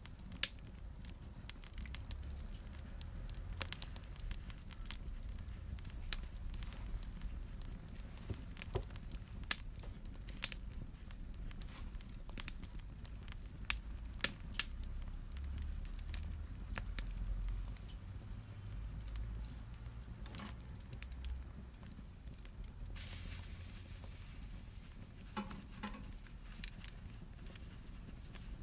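Wood fire burning in a fireplace: irregular sharp crackles and pops over a low rumble of flame. About two-thirds of the way through there is a few seconds of high hissing.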